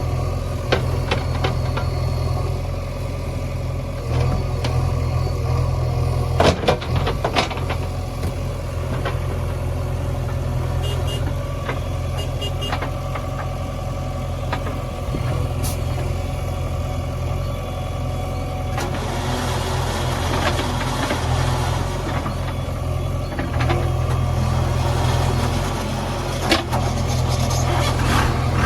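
Diesel engine of a JCB 3DX backhoe loader running steadily, with a few sharp knocks about six to seven seconds in and a rougher rushing noise joining from about two-thirds of the way through.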